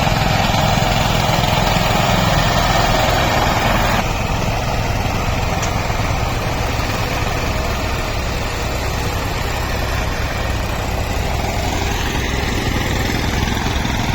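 Tractor diesel engine running steadily. The level drops a little about four seconds in.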